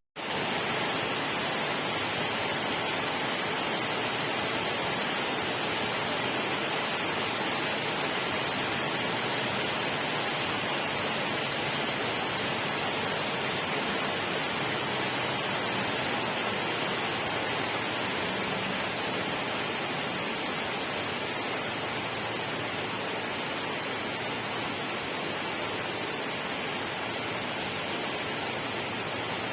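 Steady rushing water, an even unbroken hiss with no distinct drops or splashes, cutting in abruptly at the start.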